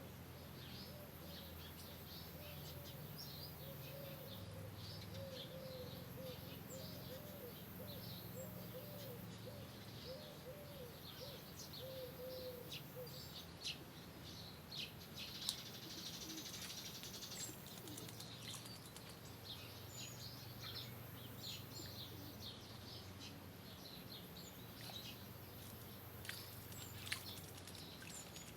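Birds chirping outdoors, with many short, high chirps throughout. A lower call of quick, repeated arching notes runs through roughly the first half. A few sharp ticks come in the middle and near the end.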